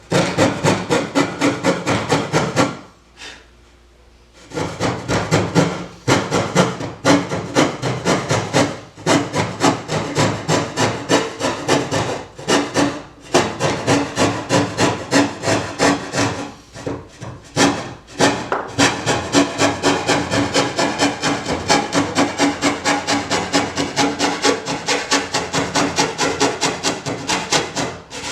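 Coping saw cutting through wood by hand in quick back-and-forth strokes, about three a second. The sawing pauses for a second or two about three seconds in, then goes on steadily.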